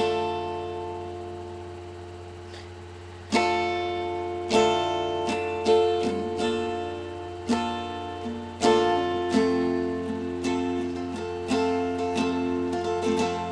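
Acoustic guitar playing chords. One chord is struck at the start and rings out for about three seconds, then chords are strummed about once a second.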